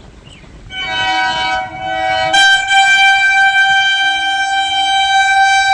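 Electric multiple unit (EMU) local train's horn sounding one long, loud blast: it starts about a second in, turns brighter and louder about two seconds later, and is held steady.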